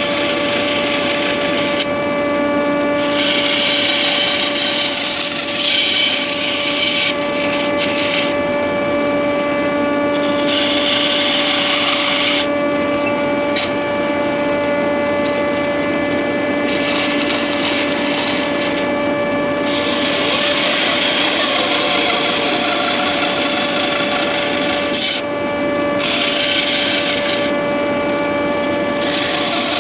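Electric woodworking saw cutting pine: a steady motor hum under a rasping cutting sound that breaks off and resumes several times as the wood is fed and turned.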